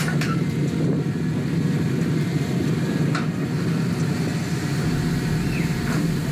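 Heavy diesel machinery engine running steadily, a continuous low rumble with a few faint clicks.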